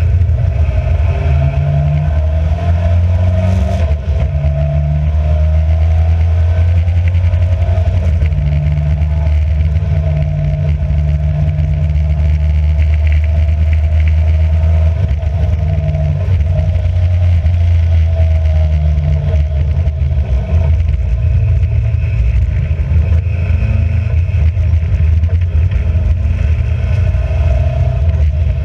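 Racing car's engine running hard and loud, its pitch stepping up and down every few seconds as the car is driven through gear changes and lifts.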